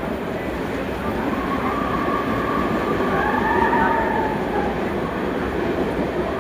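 Train running on the rails, a steady loud rumble that swells a little in the middle, with faint higher squealing tones over it.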